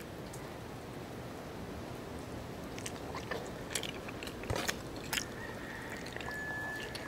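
Close-miked eating sounds: chewing, with fingers tearing crispy roast-pork (lechon) skin, and a few sharp crackles between about three and five seconds in. A thin, steady high tone comes in near the end.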